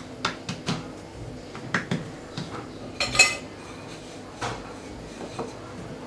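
Kitchen utensils and dishes clinking and knocking against each other in a series of separate light taps, with one louder, briefly ringing clink about three seconds in.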